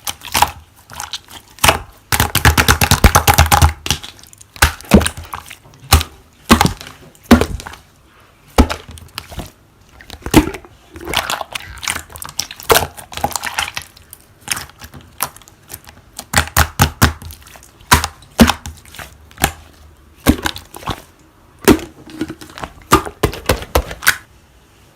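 Slime being squeezed and pressed by hand, giving a long series of sharp clicking pops, with runs of rapid crackling a few seconds in and again later.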